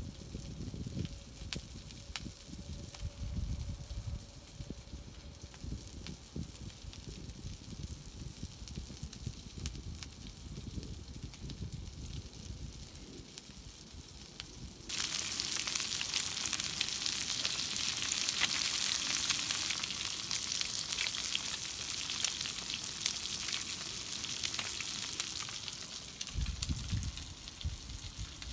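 Food frying in a pan, a loud steady sizzle with fine crackle that starts abruptly about halfway through; before it, low rumbling with faint crackles.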